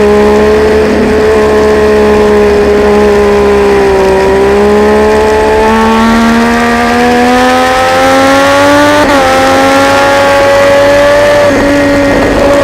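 Triumph Daytona 675 inline-three engine running hard at high revs. Its pitch dips a little, then climbs steadily under acceleration, drops sharply about nine seconds in as it shifts up a gear, and then holds.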